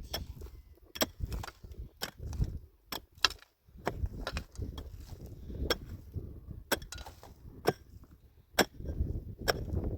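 A series of sharp knocks, roughly one a second and unevenly spaced, like a hand tool striking hard material.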